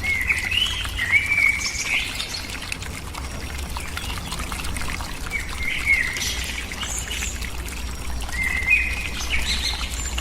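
A bird gives three short, warbling call phrases, at the start, about halfway and near the end, over a steady hiss of pouring water.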